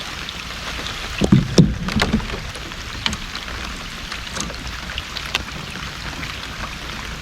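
Rain pattering steadily on the water and on a kayak, heard as scattered light ticks over a steady hiss, with a couple of louder knocks about a second and a half in.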